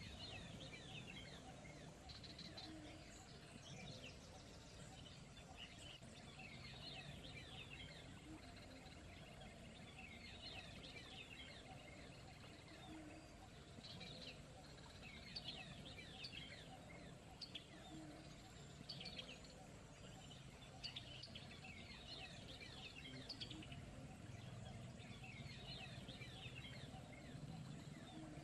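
Small birds chirping in clusters of quick, high, falling notes, over a faint steady low rush like a gentle stream.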